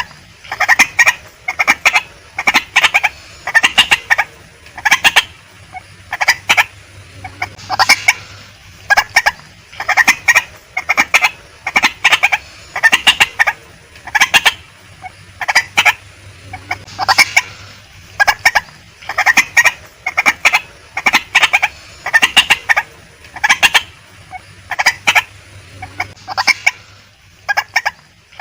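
Female white-breasted waterhen calling: loud, harsh notes given in quick clusters, repeated about once a second without a break.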